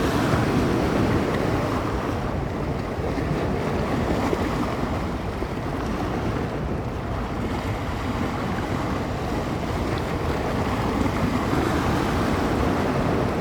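Bay waves breaking and washing on the shore in a steady rush that swells and eases, with wind buffeting the microphone.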